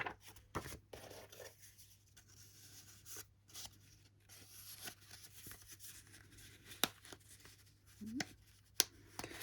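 Paper and card rustling and scraping as the pieces of a handmade altered book are handled, with a few sharp clicks and taps.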